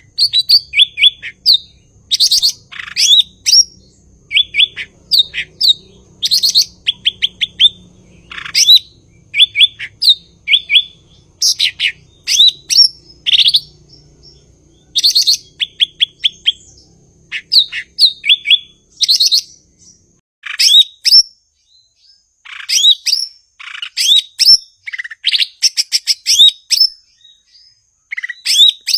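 Cucak ijo (green leafbird) in full song: a loud, continuous stream of short phrases of sweeping notes and quick chirp runs, with brief gaps between phrases.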